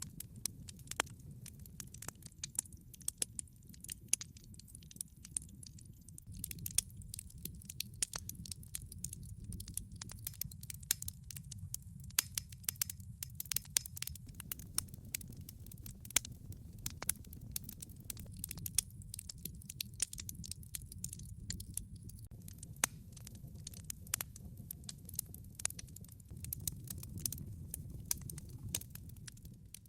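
Wood log fire crackling: a dense, irregular stream of sharp pops and snaps over a steady low rumble of the burning fire.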